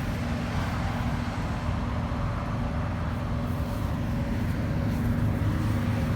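Semi truck's diesel engine running with a steady low drone and an even hum.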